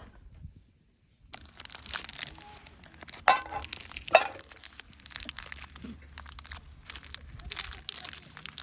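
Crinkling, crackling handling noise, with two sharp knocks a little over three and four seconds in.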